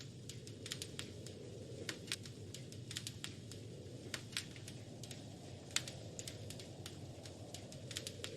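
Wood fire crackling in a fireplace: irregular sharp pops and snaps, several a second, with one louder pop a little past the middle, over a steady low rumble of the burning fire.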